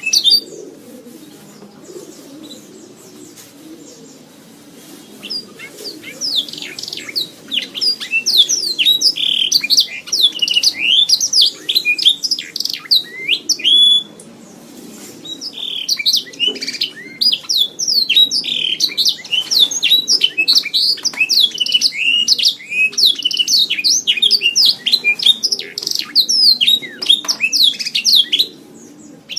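Domestic canary singing long, rapid runs of chirps and trills, with pauses at the start, around halfway, and briefly near the end.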